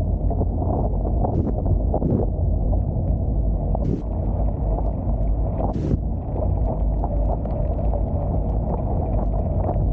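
Wind buffeting the microphone over the rush of water along the hulls of a Hobie Tiger F18 catamaran under sail, with three short hissing bursts.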